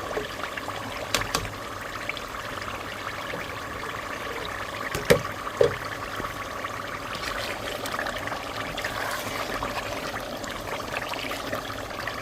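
Blended tomatoes and peppers frying in palm oil in a pot, a steady sizzle, with a couple of clicks about a second in and two sharper knocks about five seconds in.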